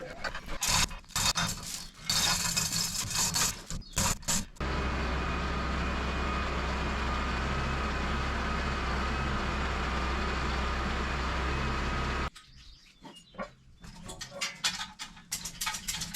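Bursts of metal scraping and clicking, then a steady machine running with a low drone for about eight seconds, starting and stopping abruptly, then a few scattered clicks.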